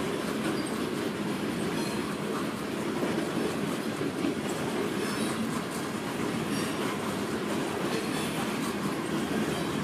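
Loaded coal hopper cars of a freight train rolling past: a steady rumble and clatter of steel wheels on the rails, with a few brief, faint high wheel squeals.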